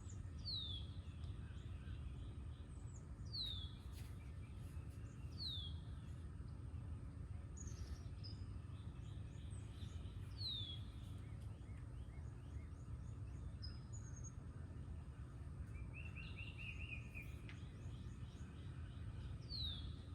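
Wild birds singing: one bird repeats a short, clear whistle that slides downward, every few seconds, and another gives a brief rapid trill about three-quarters of the way through, over a steady low background rumble.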